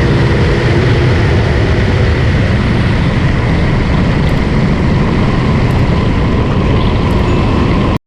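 Steady, loud vehicle rumble with no revving, cutting off abruptly near the end.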